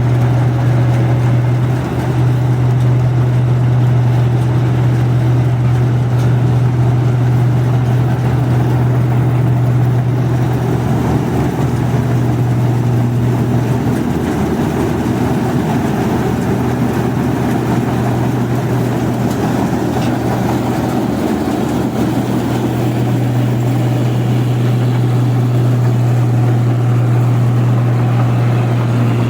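Rice combine harvester running steadily: a constant low engine hum with a rough, noisy mechanical layer over it.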